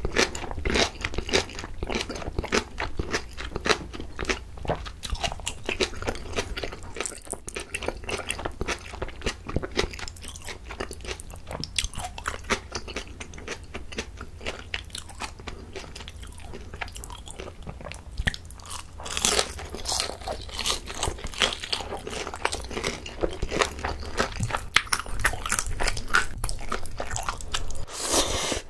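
Close-miked crunching and chewing of crispy pan-fried dumplings, with noisier eating, the noodles being slurped, near the end.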